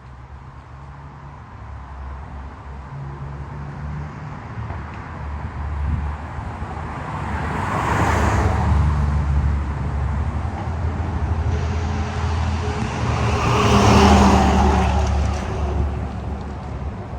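Motor vehicles driving past on a road: a steady engine rumble with tyre and road noise that swells as one vehicle passes about halfway through and again, louder, as another passes near the end.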